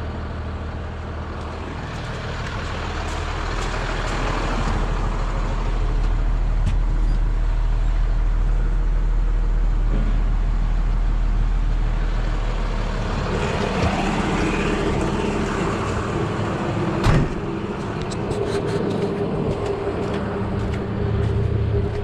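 Service truck's engine running with the PTO engaged to drive the hydraulic crane. The engine grows louder under load over the first few seconds and changes note a little past halfway, with one sharp clunk about three-quarters of the way through.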